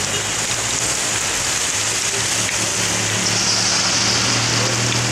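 Heavy rain pouring down, with a steady engine hum that grows louder from about three seconds in.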